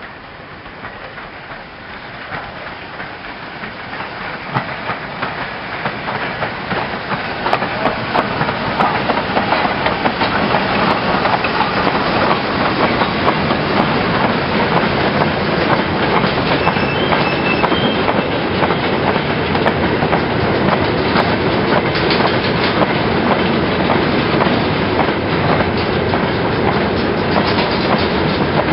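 Steam-hauled goods train of steel mineral wagons behind a Robinson O4 2-8-0 rolling past, growing louder over the first dozen seconds. Then a steady clatter of many wagon wheels rattling over the track.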